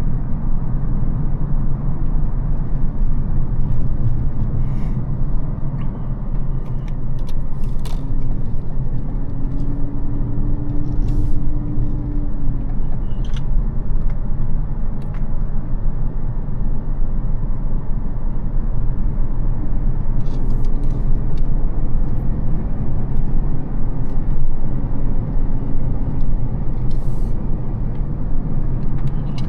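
Mercedes CL600's 5.5-litre twin-turbo V12 (M275) running under way, with steady road and tyre noise. A faint held tone rises and falls in places, and a few light ticks come through.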